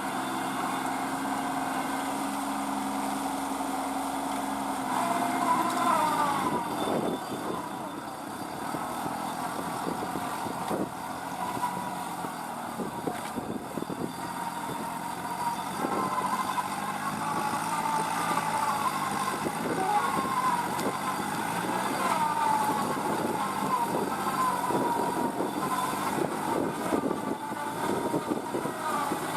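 Kubota B2441 mini tractor's diesel engine running, its note changing about five seconds in, with people's voices calling over it and scattered knocks.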